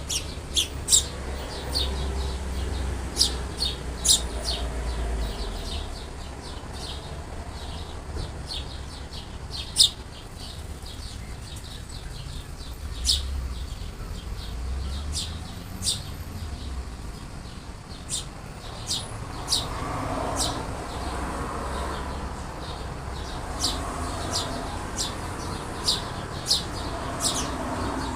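Sparrows chirping: young birds and their parent giving many short, sharp chirps at irregular intervals, over a low rumble.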